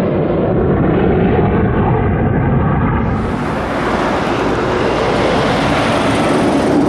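F-35 Lightning II fighter jet's turbofan engine, a loud continuous jet roar as it flies by. The sound turns brighter and hissier about three seconds in.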